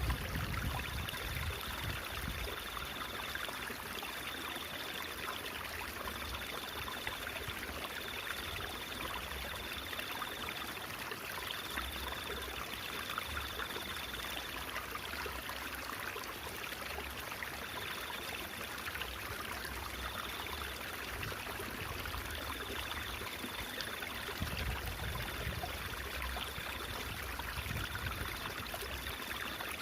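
Small stream trickling steadily. A thin high tone comes and goes in short stretches of about a second over the water.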